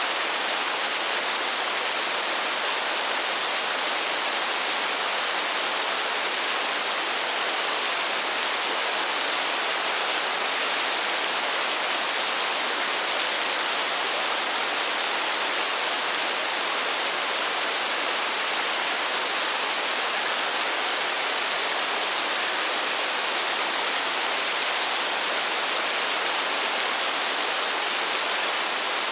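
Steady rain falling, a continuous even hiss with no single drops standing out.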